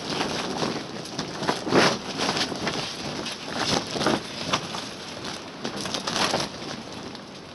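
Polytunnel's polythene cover flapping and cracking in strong wind gusts, with the frame rattling. Irregular sharp snaps come over a rushing noise, loudest about two and four seconds in, easing near the end.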